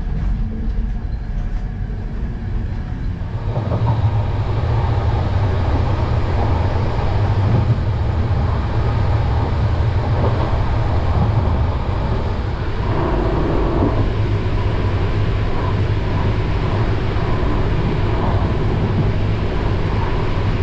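Running noise of a moving ÖBB Nightjet passenger train heard from inside the coaches: a steady low rumble of the wheels on the track. It gets louder about three and a half seconds in and stays at that level, heard from the gangway between coaches.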